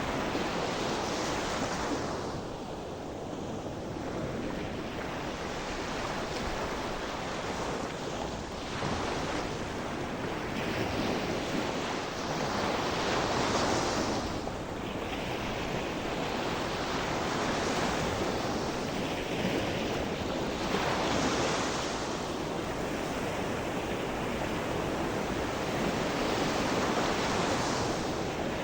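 Gentle sea waves breaking and washing on the shore, the surf rising and falling in swells every few seconds.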